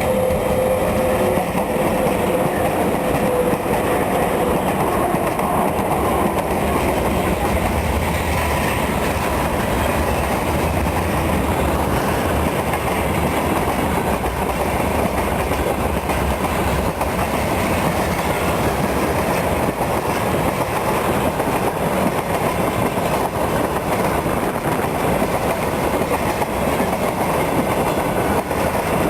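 Freight train passing close by, its wagon wheels clattering over the rail joints in a loud, steady rumble. A faint steady tone sounds in the first few seconds and then fades.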